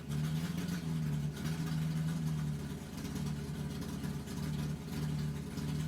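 Car engine idling, with a low rumble that swells and eases about once a second.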